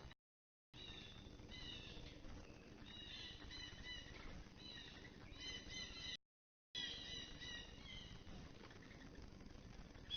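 Faint outdoor birdsong: many short, quick chirping notes from songbirds, repeated in little clusters, over a low background hiss. The sound cuts out completely twice for about half a second.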